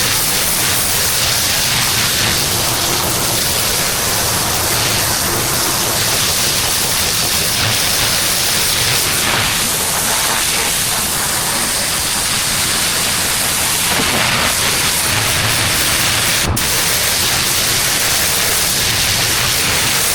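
Pressure washer jet spraying block paving: a steady, loud hiss of high-pressure water with a low rumble underneath.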